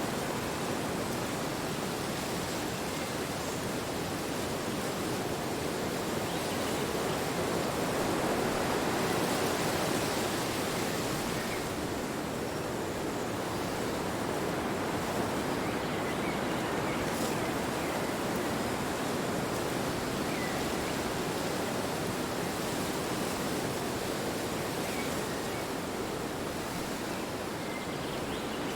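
Steady wind blowing, rising in a gust about eight to ten seconds in and then easing.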